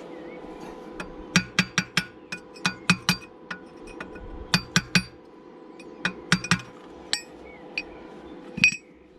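Hammer striking steel in quick clusters of two to four sharp, ringing clinks, about twenty in all, the loudest near the end. A steady hum runs underneath.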